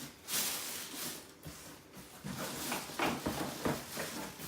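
Cardboard packaging scraping and rustling, with irregular knocks and bumps, as a pressure washer is worked out of its box.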